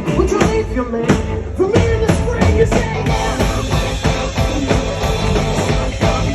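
Live rock band playing an instrumental passage, the drum kit keeping a steady beat under the guitars and bass, with the cymbals busier from about halfway through.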